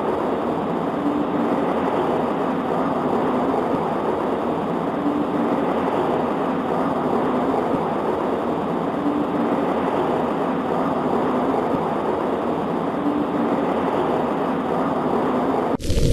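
Steady heavy rain on a window glass, an even, dense hiss. Just before the end it cuts abruptly to a louder, deeper rumble.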